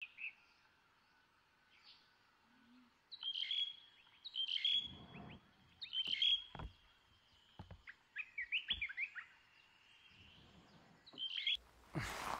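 Small songbirds chirping in repeated short phrases on a film soundtrack, with a few sharp knocks in between. A louder rustling noise starts near the end.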